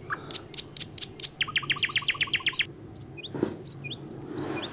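Small birds chirping: a fast run of about nine chirps a second lasting a little over a second, then a few short, high, falling notes. A brief soft rustle comes just past the middle.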